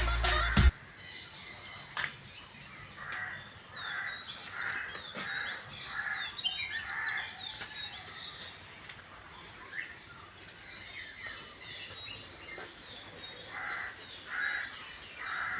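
Song cuts off abruptly within the first second. Birds then call: runs of harsh, evenly repeated calls, with thin high chirps over them.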